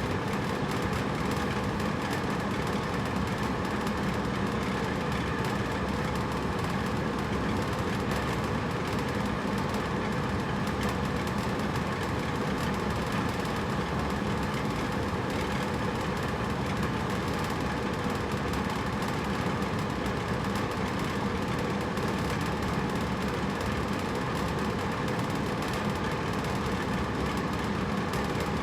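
Hotel room air conditioner running steadily: an even whooshing hum of fan and airflow with a faint low drone, unchanging throughout.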